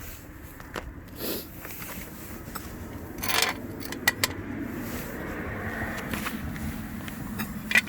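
Gear being handled: a few sharp clicks and knocks with some scraping, over a steady low rumble.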